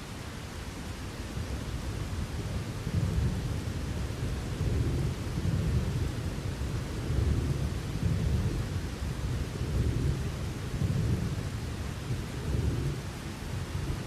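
A long rolling rumble of thunder over steady rain. It builds about a second in, swells and ebbs several times, then fades near the end, leaving the rain hiss.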